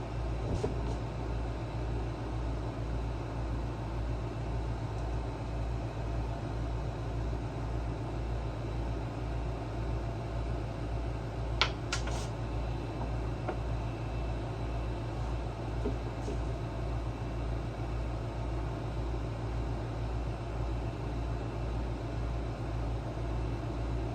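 Steady low machine hum, pulsing evenly, with a few light clicks about halfway through.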